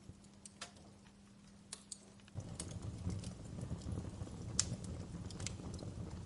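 Wood fire crackling, with irregular sharp pops and snaps. A faint steady hum gives way to a louder low rumble a little over two seconds in.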